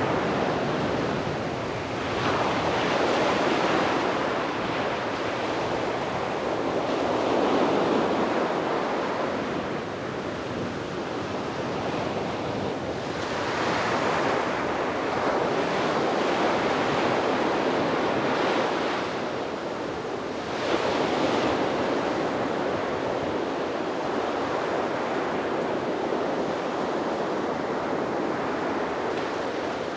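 Sea waves breaking and washing onto a beach, a continuous surf wash that swells every few seconds as each wave comes in, with some wind on the microphone.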